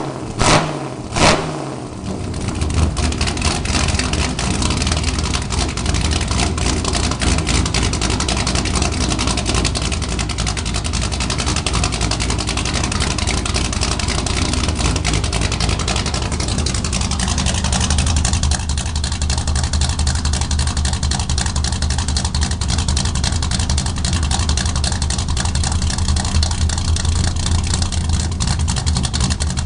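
Corvette V8 with straight-piped exhaust running: a few short, loud bursts in the first second or two, then a steady, deep idle.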